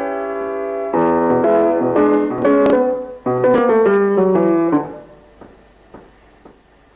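Piano playing a short run of held chords that change every second or so, stopping about five seconds in and letting the last notes die away.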